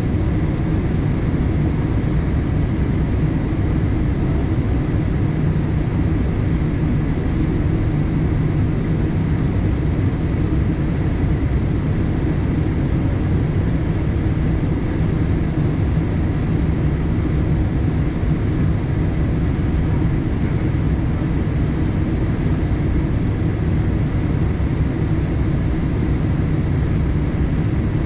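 Steady cabin noise inside a Boeing 787-8: a deep, even roar of engines and rushing air that does not change, with a faint high steady tone over it.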